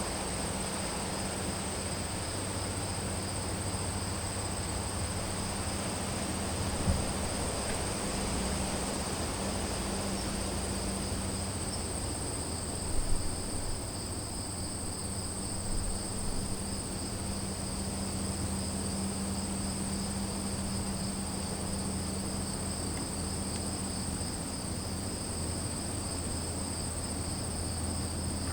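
Crickets trilling steadily in two continuous high-pitched bands, over a low steady hum. A few brief faint knocks come about 7 s and 13 s in.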